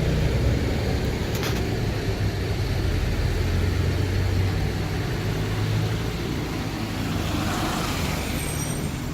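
A car engine running steadily at low revs, a low rumble over street traffic noise, with a faint click about a second and a half in.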